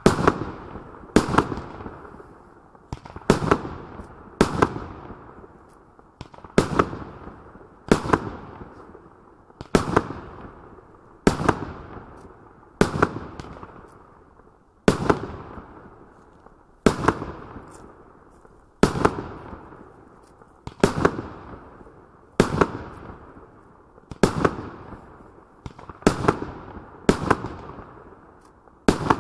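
A 37-shot consumer fireworks cake firing its aerial shots one after another, a sharp bang roughly every one to two seconds, each trailing off over about a second.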